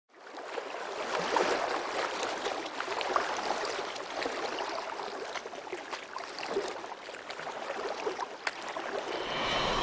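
Seawater rushing and splashing along a moving sailing yacht's hull, an even rush full of small splashes and crackles.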